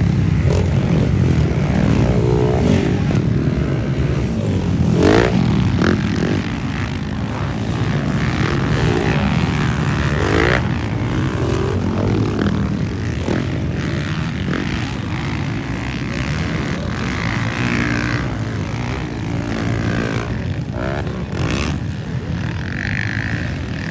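Motocross dirt bike engines running in a race, a steady low drone with engines revving up and down in pitch as bikes pass.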